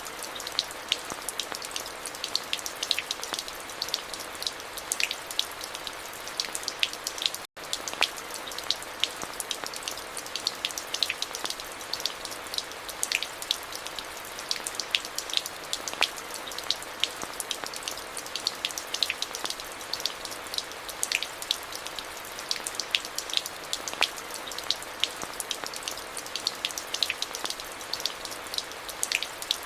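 Steady rain falling, a continuous hiss dotted with many sharp taps of individual drops. The sound cuts out for an instant about seven seconds in, then carries on unchanged.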